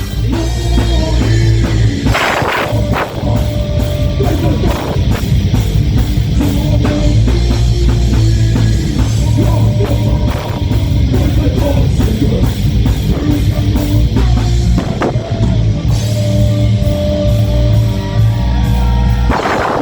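Live heavy metal band playing: distorted guitars, bass and fast drums, with a vocal line in places and cymbal crashes about two seconds in and near the end.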